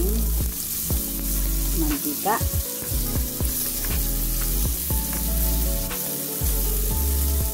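Guanciale sizzling as it fries in its own rendered fat in a pan, stirred with a spatula, with background music of sustained notes.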